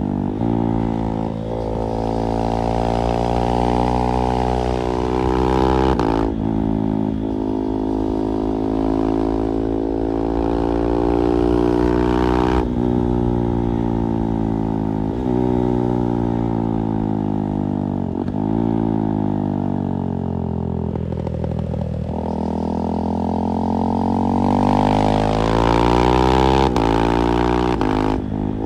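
KTM 390 Duke's single-cylinder engine through an IXIL slip-on exhaust, revving up again and again while riding. Each climb in pitch is cut by brief breaks as the quickshifter changes gear, and there is a longer fall in revs near the middle.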